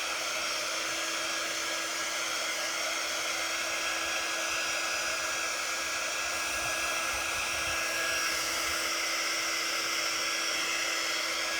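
Handheld electric blow dryer running steadily, with an even whoosh of air and a steady hum, drying chalk paste on a silk screen stencil.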